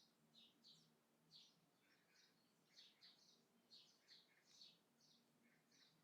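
Faint birds chirping outdoors: short, high chirps repeating two or three times a second.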